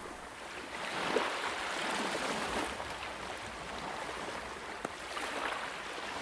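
Water washing and rippling steadily, with small splashes and drips scattered through it and the rush swelling and easing.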